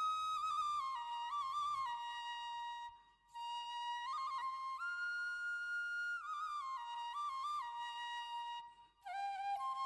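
Background music: a solo flute playing an ornamented melody, with brief pauses between phrases about three seconds in and near the end.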